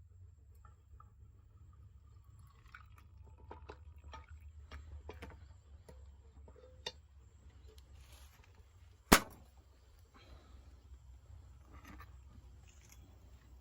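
Scattered small clicks and taps over a low steady rumble, with one sharp, loud knock about nine seconds in.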